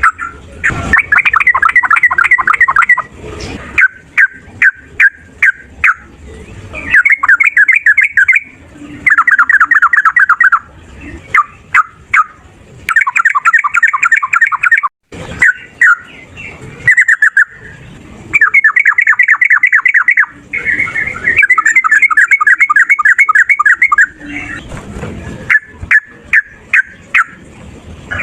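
Yellow-vented bulbul (trucukan) calling in loud bursts of fast, chattering trills, each one to three seconds long, with single sharp notes in between.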